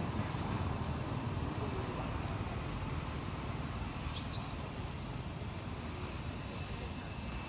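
Steady low outdoor rumble, like wind or distant traffic, with a brief high-pitched squeak about four seconds in.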